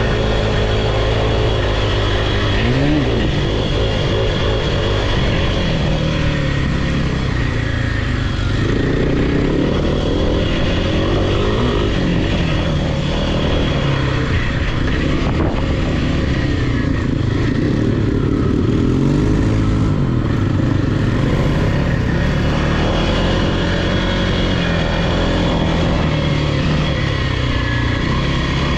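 Single-cylinder off-road engine running under throttle, its pitch climbing and falling again several times as it is revved and eased off.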